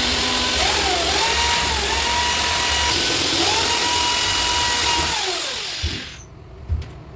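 Electric drill running under load for about six seconds, its motor pitch dipping and recovering, then winding down and stopping. A short knock follows near the end.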